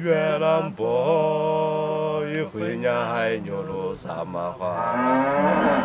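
Men singing a slow, chant-like song in long held notes broken by short pauses.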